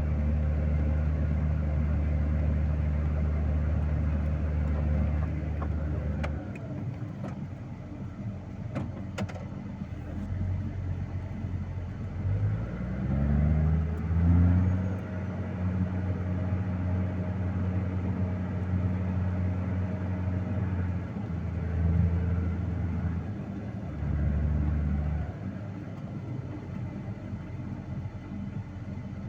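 Vehicle engine running steadily, then easing off after about six seconds. It revs up with a rising pitch about twelve seconds in, holds at a steady higher speed, and eases off and picks up again twice near the end.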